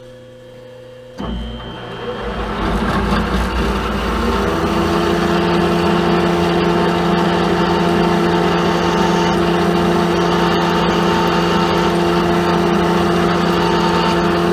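A machine-tool motor switches on about a second in, spins up over the next few seconds, then runs with a steady hum, ready to drill a 1/4-inch through hole.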